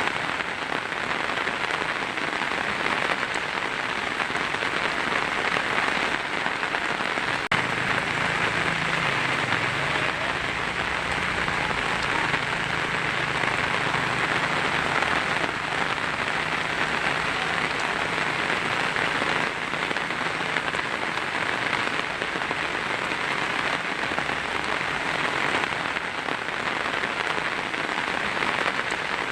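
Heavy rain falling on a tin roof: a steady, dense patter without a break.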